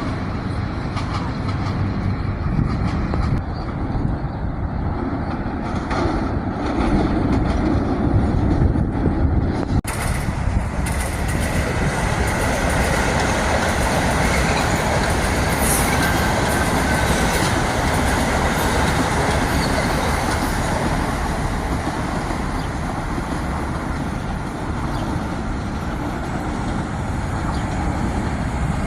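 Metro-North commuter train running past on the tracks: a steady rumble of wheels on rail. The sound changes abruptly about ten seconds in and carries on fuller and brighter.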